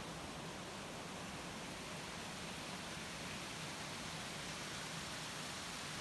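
Steady rushing of a small stream flowing over stones, an even, unchanging wash of water noise.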